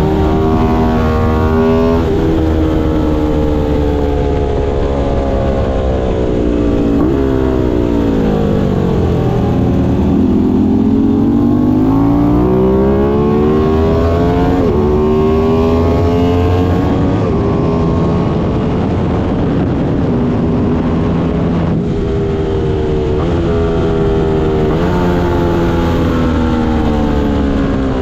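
Aprilia Tuono 660's parallel-twin engine at track pace, revving up through the gears with a short break at each upshift. About seven seconds in, the pitch drops steeply as the bike brakes and downshifts, then climbs again, over a steady low rush of wind and road noise.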